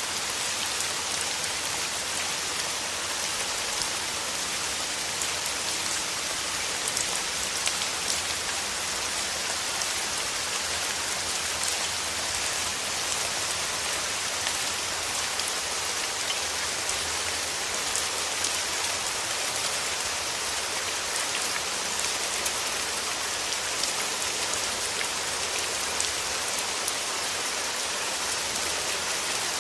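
Steady rain, an even hiss dotted with the ticks of single drops landing close by.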